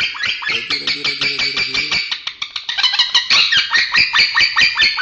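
Male lovebird chattering in a fast, jumbled run of high chirps and squeaks, about eight to ten a second, the unclear 'short-circuit' (kongslet) style of song.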